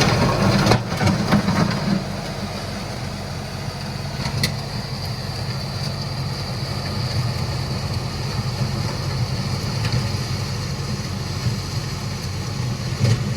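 Diesel engine of an LS MT357 tractor running steadily, with a few rattling knocks in the first two seconds.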